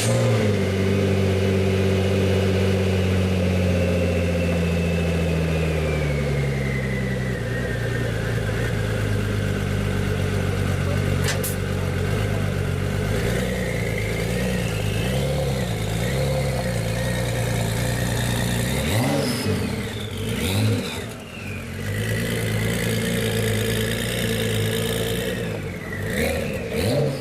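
Ford performance car's engine and exhaust running just after start-up, holding a raised fast idle that drops to a lower idle about six seconds in. It then idles steadily, with short changes in engine speed about two-thirds of the way through and again near the end.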